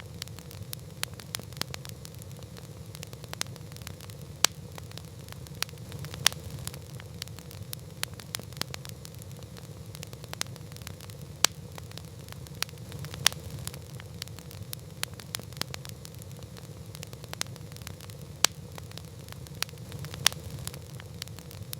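Wood campfire crackling: irregular sharp pops and snaps, a few of them louder, over a steady low rumble.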